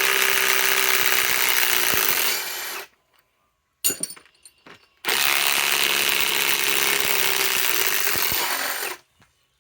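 Ryobi PSBIW25 compact cordless impact wrench hammering, driving galvanized lag screws into wood in two runs of about three to four seconds each, with a few light clicks in the short pause between them.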